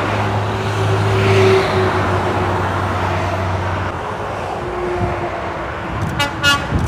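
Heavy lorries and cars passing on the motorway below, with a steady low drone for the first four seconds or so that then fades into the general traffic noise.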